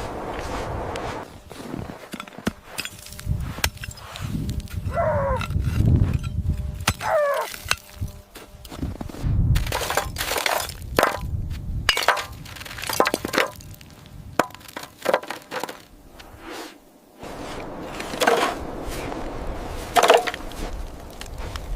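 A run of sharp cracks, snaps and clinks, irregularly spaced, with a few short squeaky falling tones mixed in.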